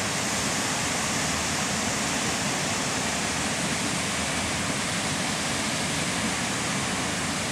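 Steady, even rushing hiss that holds one level throughout.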